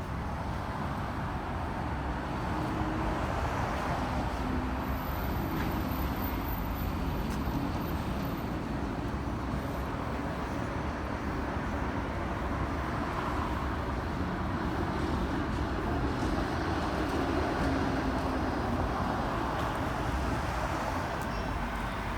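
Steady city street traffic, vehicle engines and tyres running, with wind rumbling on the microphone.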